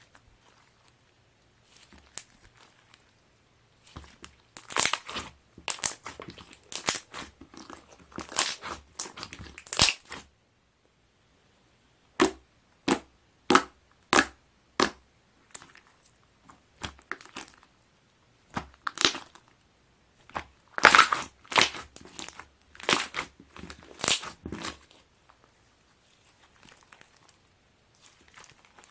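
Aloe slime being pressed and worked by hand, giving sharp crackling and popping sounds in dense clusters. A run of separate single pops, about two a second, comes between the clusters.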